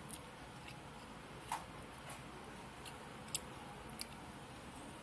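Close-up eating mouth sounds: chewing with about half a dozen irregular, sharp wet clicks and smacks over a low steady hiss.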